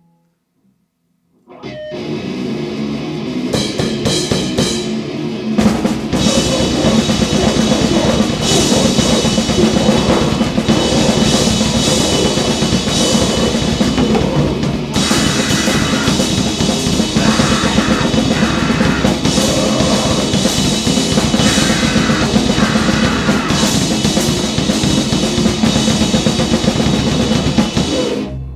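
Grind-noise band playing a fast, dense piece of drum kit and distorted guitar. It kicks in suddenly about a second and a half in and cuts off abruptly near the end.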